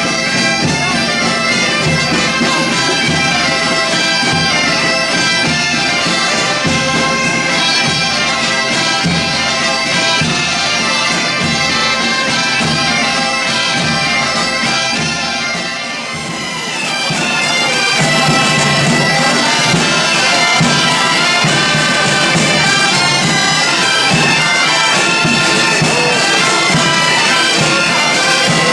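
A band playing music on loud, reedy wind instruments over a steady low drum beat. The music dips briefly about sixteen seconds in, then comes back a little louder.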